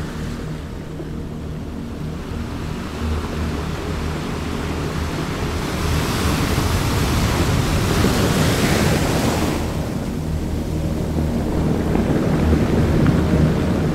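Surf washing in, with one wave swelling and falling away from about six to nine and a half seconds in, over a steady low hum.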